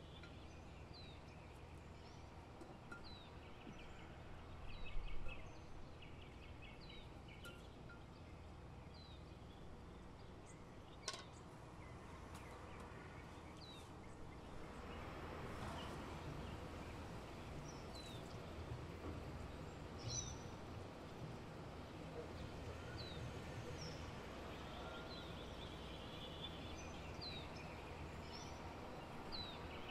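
A small bird chirps again and again, a short falling chirp every second or two, over a low steady hum. Among it are quiet sounds of a cloth bag of riced cauliflower being handled and wrung out over a glass bowl: a thump about five seconds in, a sharp click near eleven seconds, and a soft rushing from about halfway as liquid is squeezed out.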